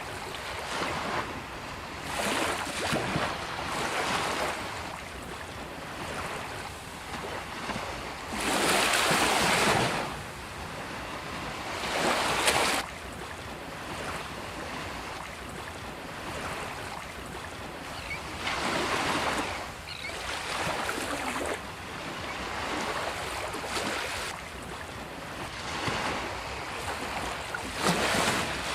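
Sea waves breaking on a beach: a wash of surf that swells and fades every few seconds, the loudest break about nine seconds in.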